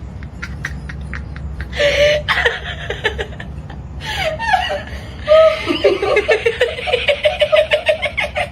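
A person laughing, breaking into a long run of quick chuckles about halfway through.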